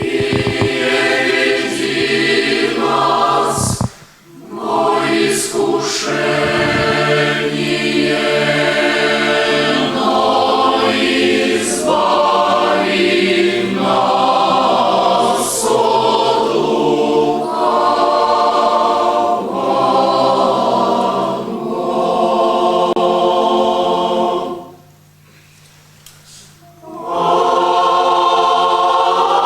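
Boys' and youths' choir singing sustained chords, breaking off briefly about four seconds in and again for a couple of seconds near the end.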